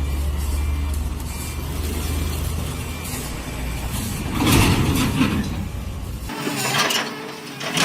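Heavy vehicle engine rumbling steadily, with a reversing alarm beeping in the first couple of seconds. A loud rush of noise comes about four and a half seconds in, and the low rumble cuts off abruptly a little after six seconds.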